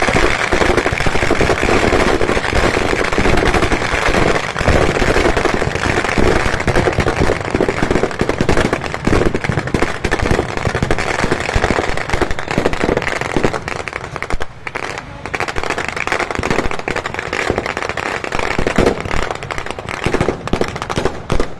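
Firecrackers packed into a burning Ravana effigy going off in a fast, unbroken crackle of many bangs, like machine-gun fire, easing briefly about two-thirds of the way through.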